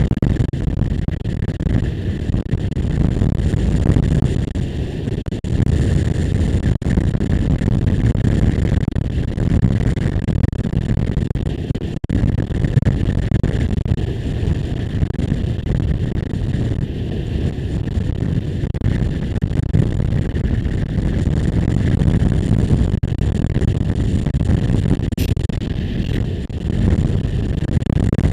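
Motorcycle on the move: steady engine and road noise mixed with wind buffeting the microphone.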